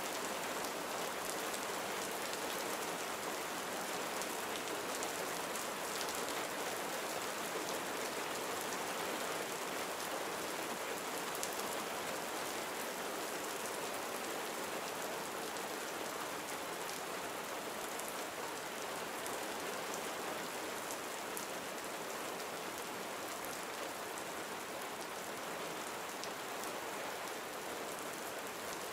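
Steady gentle rain falling on a surface, a constant patter with faint individual drops ticking through it.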